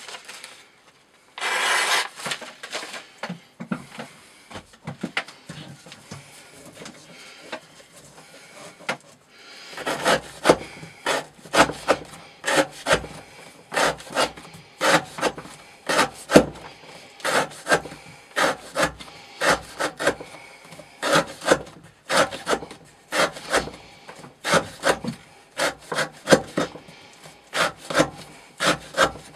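Knife blade worked in repeated short, scraping strokes: a louder scrape about two seconds in, light scratching, then from about ten seconds on a quick, uneven run of strokes at roughly two a second.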